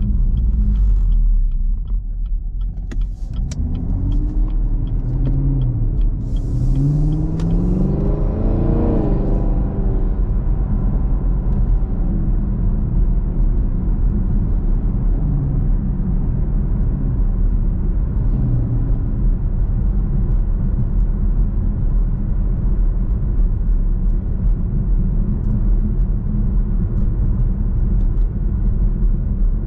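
2021 Camaro SS's 6.2-litre V8 rumbling steadily at low speed. Its pitch rises briefly about eight to nine seconds in, and there is a short hiss around seven seconds in.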